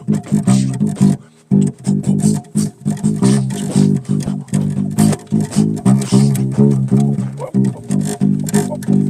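Solo bass guitar played live, a fast run of short plucked notes with a brief pause about a second in.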